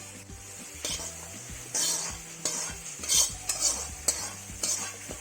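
Metal ladle scraping and scooping in a kadai, lifting out boiled chicken pieces in a run of short strokes that begins about a second in and comes roughly every half second.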